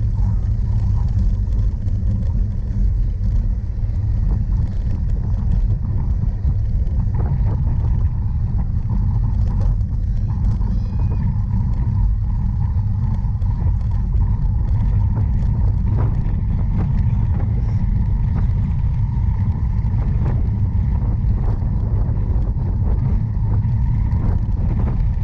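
Steady low rumble of a cyclocross bike being ridden over rough ground, heard as wind and vibration on a camera carried on the bike or rider, with scattered clicks and knocks.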